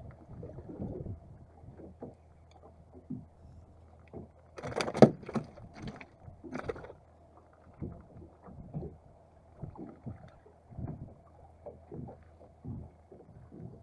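Small boat on the water: soft knocks and slaps of water against the hull about once a second, over a low steady hum. A loud burst of clattering comes about five seconds in, with a shorter one about two seconds later.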